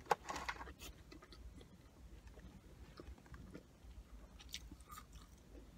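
Faint chewing and mouth clicks of someone eating McDonald's French fries, with scattered soft crunches and a slightly louder stretch just after the start.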